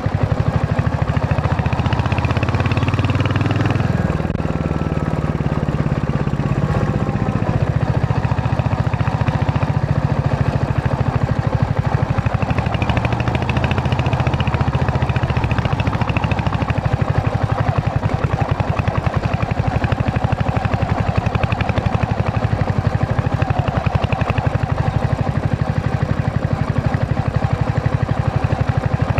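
Royal Enfield Hunter 350's single-cylinder engine running under way, a steady rapid exhaust thump whose pitch rises and falls with the throttle.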